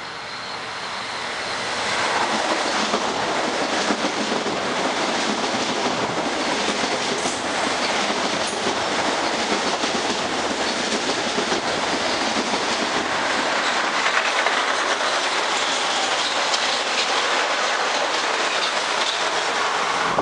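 Metro-North M8 electric train running through the station at speed without stopping. The loud rush of wheels on rail builds over the first two seconds as it arrives, then holds steady while the cars go by.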